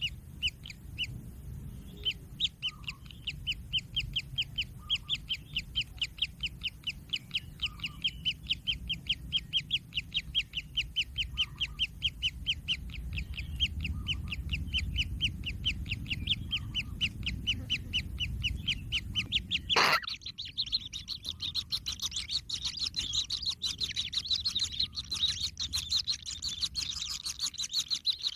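Kingfisher chicks begging, a long run of short calls repeated about four times a second. About two-thirds of the way through there is a sharp click, after which the calls become a denser, higher chattering chorus.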